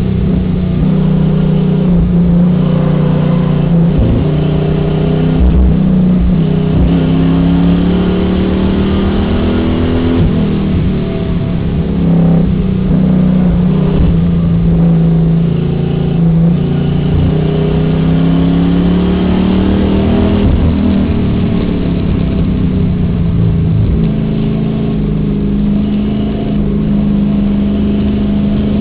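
Race car engine heard from inside the cabin, running hard, its pitch rising and falling as the throttle is worked.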